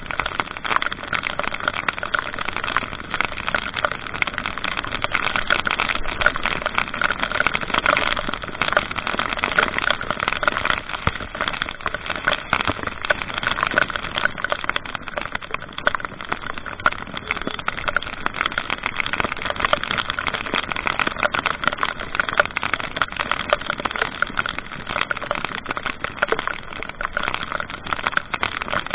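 A vehicle on the move: steady running and road noise with a dense crackle of small clicks throughout.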